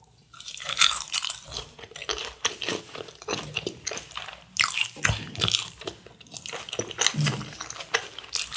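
Biting into and chewing a fried cheese ball: repeated crisp crunches of the crust, over and over, mixed with chewing.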